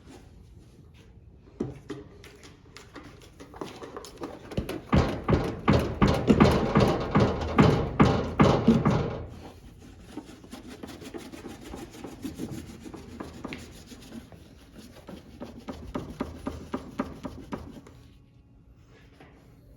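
Hand work on a washing machine under repair: rubbing and scraping with a rapid run of small clicks and knocks. It is loudest for several seconds in the first half and softer again later on.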